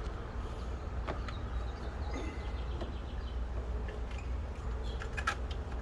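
Light clicks and taps of an ignition coil pack being handled and seated back onto a spark plug, with a short run of sharper clicks about five seconds in, over a steady low rumble.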